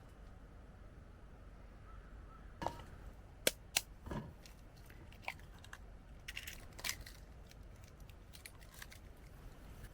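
A handful of sharp clicks and knocks, roughly eight, falling between about three and seven seconds in. They sound like small objects being handled, over a faint steady low background noise.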